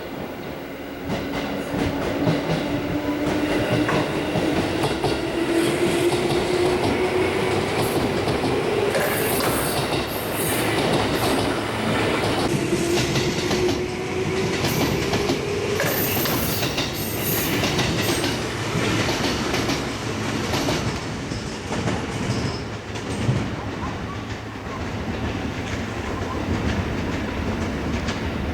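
Electric local train pulling out of the station and accelerating. A motor whine rises steadily in pitch for about sixteen seconds, over rumbling running noise and wheels clattering across rail joints and points.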